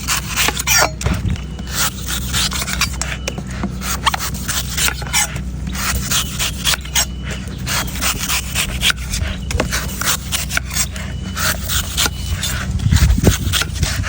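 A knife rapidly scraping and shaving a coconut in many quick, uneven strokes, over a steady low hum.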